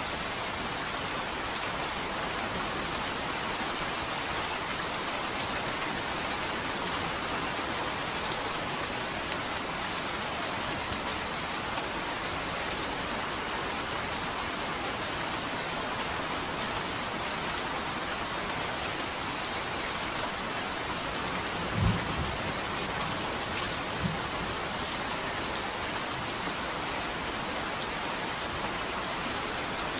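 Steady rain falling. About two-thirds of the way through come two short, low thunder thumps about two seconds apart, the first the louder.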